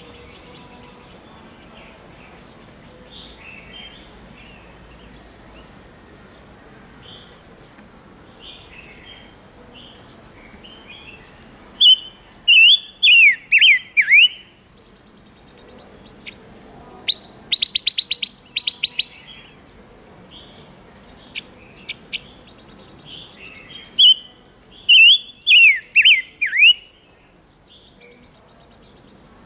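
A Leiothrix songbird (chim ngũ sắc) calling, used as a lure call to stir up males. Soft chirps run throughout. Two loud bursts of quick, steeply falling notes come, one partway through and one near the end, with a rapid run of high, sharp notes between them.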